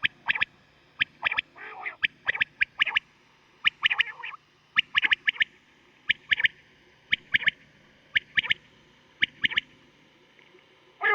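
Quail calling: short, sharp notes in quick groups of two or three, repeating about once a second.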